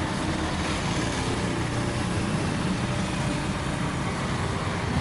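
Steady low rumbling noise with no clear events, like a vehicle's hum or traffic.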